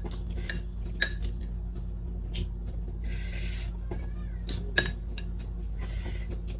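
Eating utensils clinking against a dish in a few sharp, separate clinks, over a steady low hum, with two short hissing noises about three and six seconds in.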